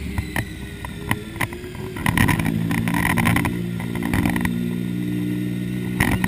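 Motorcycle engine running at low, steady revs while the bike rolls slowly, with wind thudding on the microphone. The steady engine note settles in about two seconds in.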